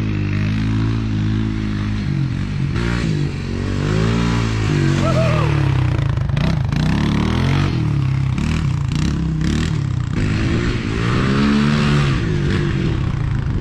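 A motor vehicle engine running, its pitch rising and falling again and again as it is revved and eased off, with a few short knocks partway through.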